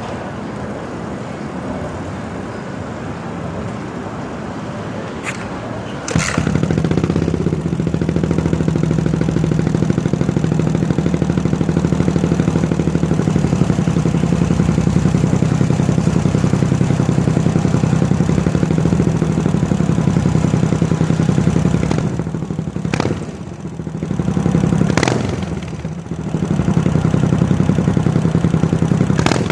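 Yamaha SR400's single-cylinder four-stroke engine running through a slip-on megaphone exhaust. It runs at low revs, steps up suddenly about six seconds in to a louder, faster steady run, and drops off and picks up again twice near the end.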